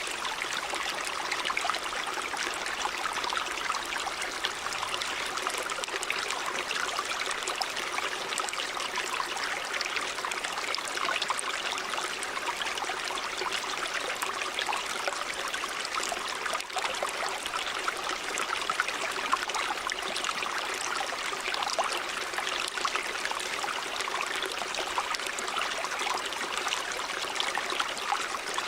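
River water running over stones: a steady rush with constant fine splashing and burbling.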